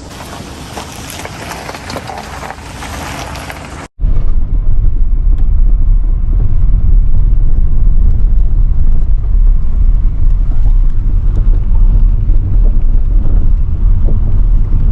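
Car on the move: a loud, steady low rumble of road and engine noise. It follows an edit cut about 4 seconds in that abruptly ends an even hissing noise.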